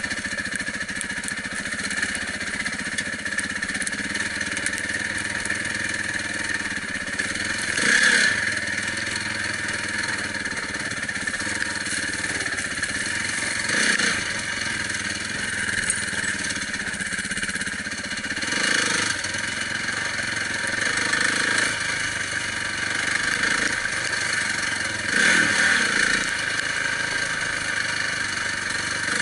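Enduro motorcycle engine running while riding over rough ground, the revs swelling louder every five or six seconds as the throttle is opened.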